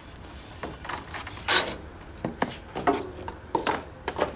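Lengths of wooden shoe molding knocking and rubbing against each other as they are picked through by hand, with a series of separate sharp clacks in the second half.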